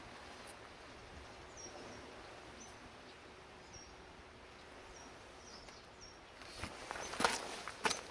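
A small bird chirping, short high notes about once a second, over a steady outdoor hiss. A few sharp clicks and knocks near the end are the loudest sounds.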